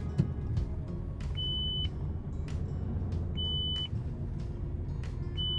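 Isuzu Giga heavy truck with a low engine rumble under an electronic warning beeper: a short, high beep about every two seconds.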